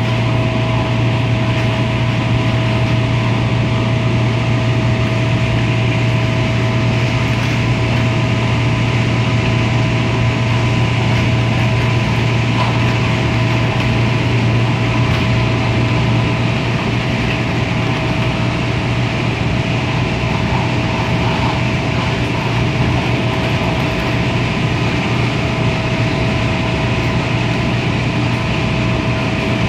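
Inside an MTR Tung Chung Line A-Train running at steady speed: a steady low rumble of wheels on rail, with an even whine at a fixed pitch over it.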